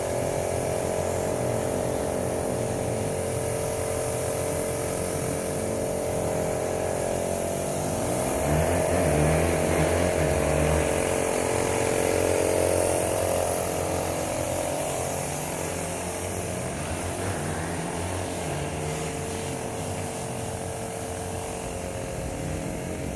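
A small motor running steadily, its pitch wavering slowly, a little louder about eight to thirteen seconds in.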